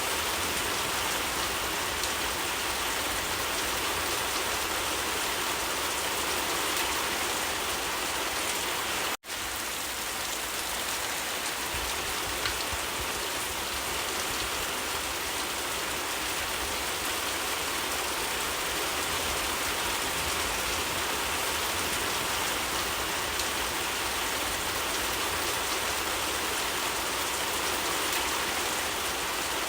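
Steady, dense rainfall hissing evenly, cutting out for an instant about nine seconds in before resuming.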